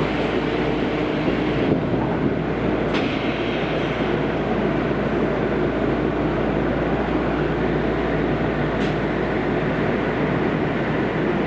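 Kobe City Subway 5000-series linear-motor train running through its tunnel, heard from inside the car: a steady rumble of wheels on rail. A faint motor tone sounds in the first second or so, and there are two brief sharp clicks.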